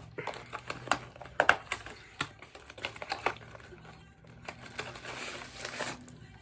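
Small items and their packaging being handled: scattered light clicks and taps, then a stretch of rustling about four and a half seconds in.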